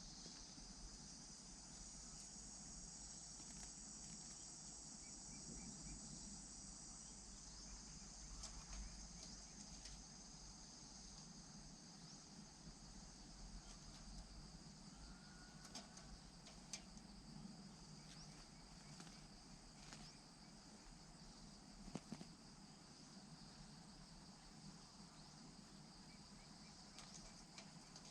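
Faint, steady high chirring of insects, with a few scattered light ticks; no bird call stands out.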